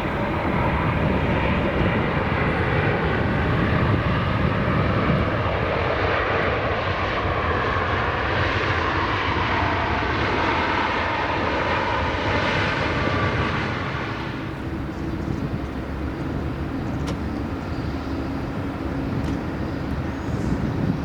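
Jet airliner engines on landing approach, a Boeing 787-8, running with a loud whine that swells as it passes close. About two-thirds of the way through, the sound cuts to a quieter, steadier jet noise from the next arriving airliner, a Boeing 747-400, still farther off.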